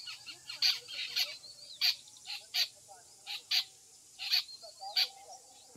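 Birds calling in a rapid, irregular series of short, sharp chirps, about two a second, with a faint steady high tone underneath.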